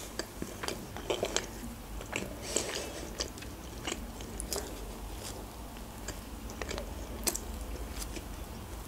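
A person chewing a mouthful of fluffy pancake, with scattered sharp mouth clicks and smacks, most of them in the first half and one louder click about seven seconds in.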